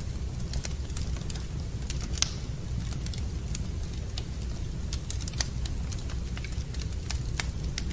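Wood fire burning in a fireplace: irregular crackles and pops, one sharper pop about two seconds in, over a steady low rumble.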